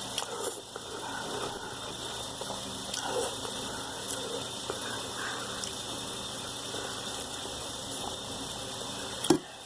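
A person eating ramen noodles: soft, intermittent chewing and slurping over a steady background hiss, with one sharp knock near the end.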